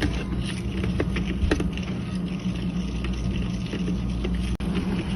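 A utensil stirring sauce in a bowl, giving scattered light ticks and scrapes against the bowl, over a steady low hum.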